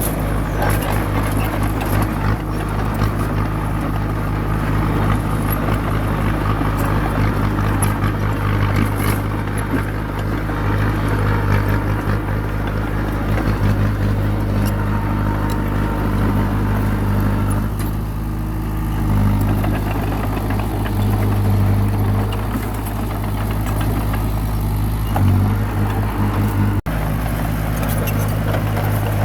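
Bulldozer's diesel engine running steadily, with a slight change in pitch a little past the middle.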